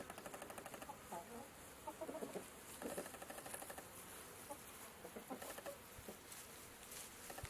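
Faint bird calls: a fast run of short, evenly spaced pulses in the first second, then scattered short calls.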